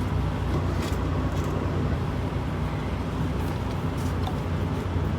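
Semi-truck diesel engine idling steadily, with a few light clicks over it.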